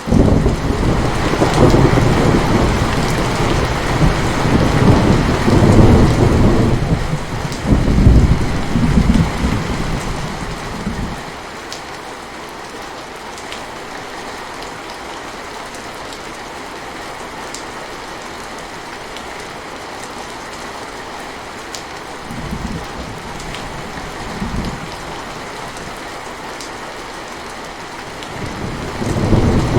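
Steady rain with a long, loud roll of thunder over the first ten seconds or so. Two brief low rumbles come about two-thirds of the way through, and another thunder roll builds near the end.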